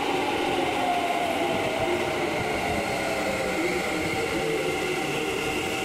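Keikyu 1000 series electric train pulling in along an underground station platform: wheels rumbling on the rails under a whine of several tones from its motors that slowly falls in pitch as the train slows.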